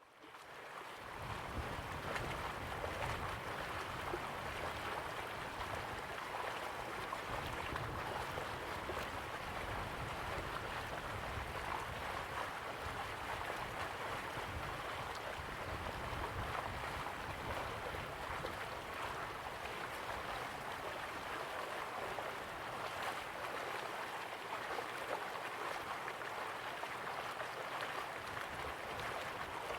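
Steady flow of slow-moving river water, a continuous, even rush with no breaks. The sound fades in over the first second or so.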